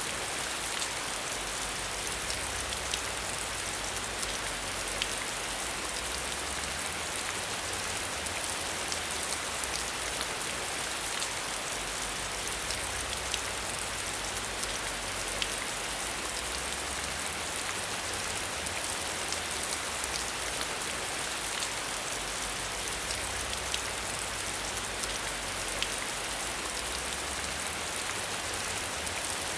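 Steady rain falling, with the ticks of single drops scattered through it and a low rumble underneath that swells and fades.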